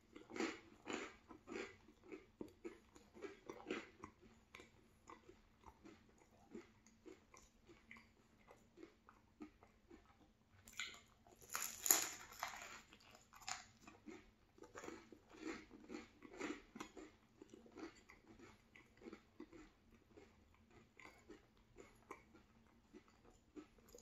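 Close-up mouth sounds of a man biting into and chewing a cheese bagel with citrus jam: a steady run of soft wet chewing smacks and clicks, with one louder crunching bite about halfway through.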